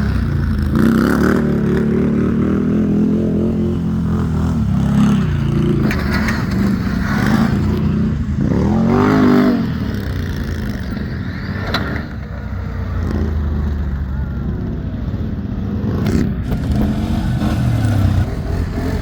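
ATV engine running with changing throttle, revving up and back down about nine seconds in.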